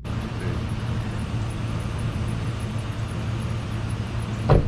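Chevy Silverado 2500's 6.0-litre gasoline V8 running steadily at idle, with one sharp thump near the end.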